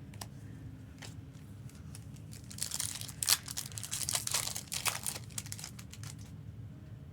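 Plastic wrapping on trading card packaging being torn and crinkled for a few seconds, starting about two and a half seconds in and stopping shortly before the end.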